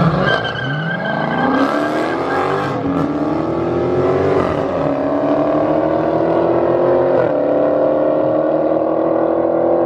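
Car engine accelerating through the gears, its pitch climbing and then dropping at upshifts about three and four and a half seconds in, then settling into a nearly steady cruise.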